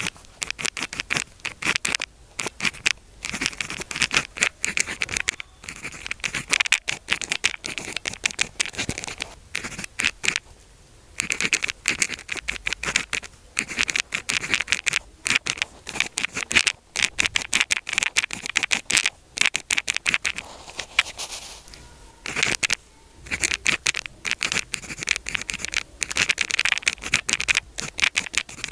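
Pen writing on paper: runs of quick scratching strokes, broken now and then by short pauses.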